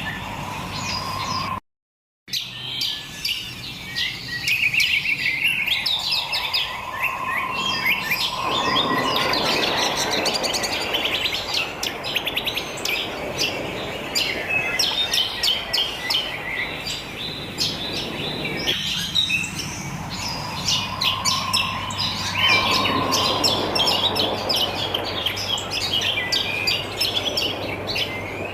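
Many wild birds chirping and twittering together in quick, overlapping calls. The sound cuts out completely for about half a second near the start, and a rushing noise rises under the birdsong twice.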